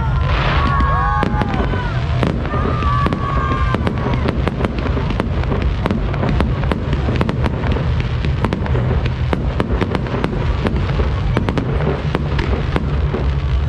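Fireworks display: shells bursting and crackling in quick, dense succession over a continuous low rumble.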